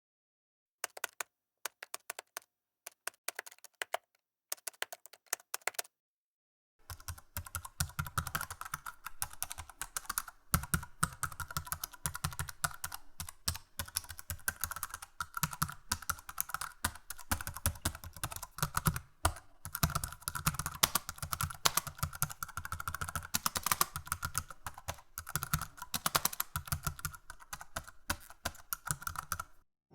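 Typing on a computer keyboard: short runs of keystrokes with pauses between them, then, about seven seconds in, fast continuous typing that stops just before the end.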